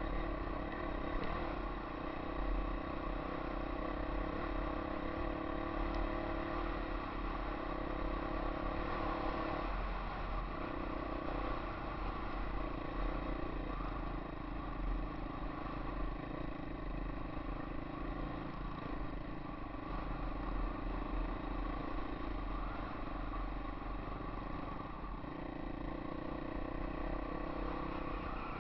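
Yamaha XT 250 air-cooled single-cylinder four-stroke engine running steadily under way, heard from the rider's helmet, with low wind rumble on the microphone. The engine note breaks briefly about ten seconds in and again near twenty-five seconds.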